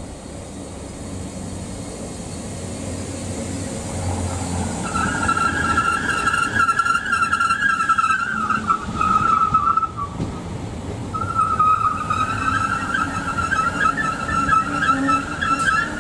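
Train approaching and running past, getting louder over the first few seconds. From about five seconds in a high, wavering squeal rides over the rumble. It breaks off briefly around ten seconds, then returns.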